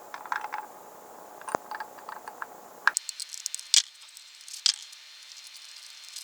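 Irregular light metallic clicks and taps of a small wrench working a bolt on a small-engine carburetor.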